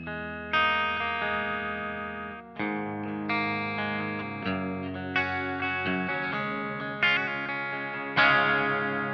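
Covenant Innovator I-STD electric guitar played through effects: a chord is struck every second or two and left to ring out, about six chords in all, the last and loudest near the end.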